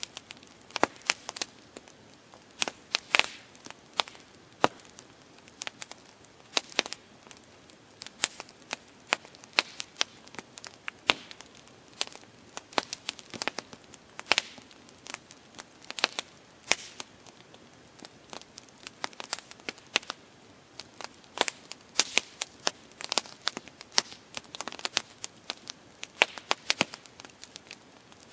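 Campfire burning, wood crackling and popping in irregular sharp snaps over a soft steady hiss.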